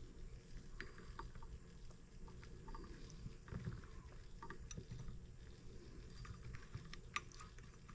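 Faint, scattered light clicks and taps as an M25 sideshaft model engine is handled and oiled, over a low steady hum.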